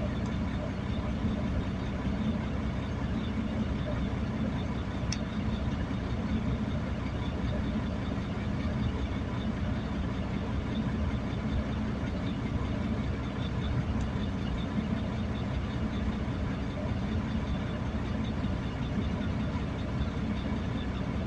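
A steady low engine hum, with two faint clicks partway through.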